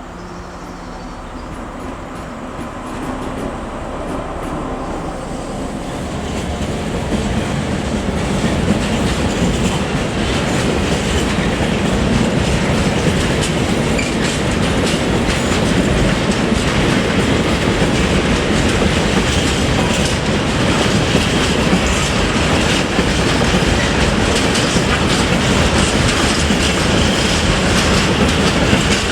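A train approaching and passing close by, its wheels clattering over the rail joints. It grows louder over the first several seconds and then stays loud and steady.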